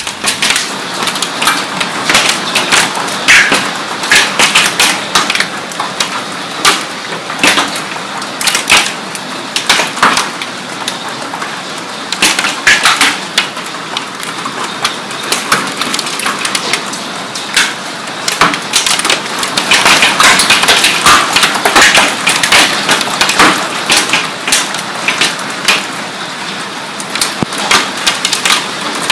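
Heavy hail pelting hard surfaces: a dense, irregular clatter of sharp cracks and knocks over a steady rain-like hiss, heaviest about two-thirds of the way through.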